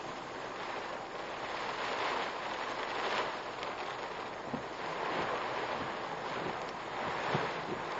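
Typhoon wind and rain on a car, picked up by the dashcam's microphone: a rushing noise that swells and eases with the gusts, with a few light taps.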